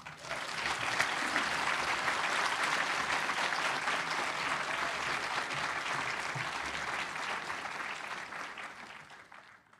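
Audience applauding at the end of a talk, a dense steady clapping that builds quickly and fades out over the last couple of seconds.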